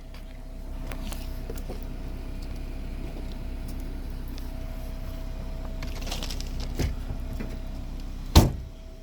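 A car's power tailgate motor whirs steadily for several seconds, ending in one loud thump about eight seconds in.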